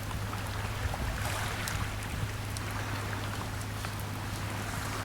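Sea waves washing steadily onto the shore, with small sharp crackles from a wood campfire scattered through.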